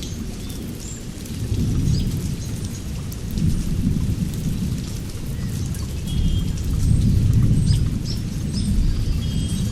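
Birds chirping over a low rumble that swells and fades several times, loudest a little past the middle.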